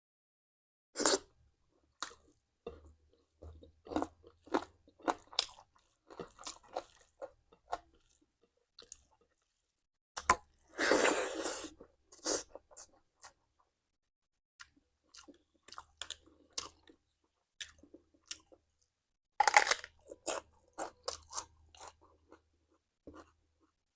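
A person chewing and crunching food, in irregular bites and chews with silent gaps. A longer, louder crunch comes about eleven seconds in, and another loud cluster of crunches comes near twenty seconds.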